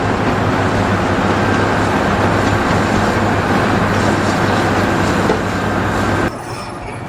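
Loud, steady machine noise: a dense rumble with a low hum, cutting off suddenly about six seconds in.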